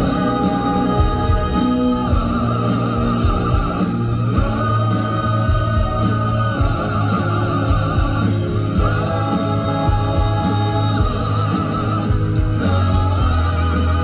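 Live pop-opera vocal group singing with band accompaniment over a PA system: long held notes with vibrato over a steady bass line.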